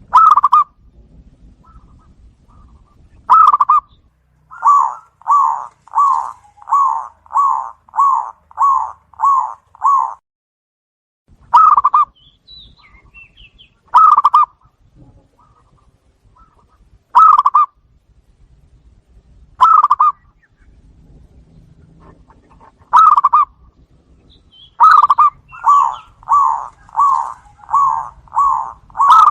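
Zebra doves (perkutut) cooing. Single loud coos come every few seconds, and twice a fast run of about nine even coos plays, about one and a half a second, with faint high chirps above them.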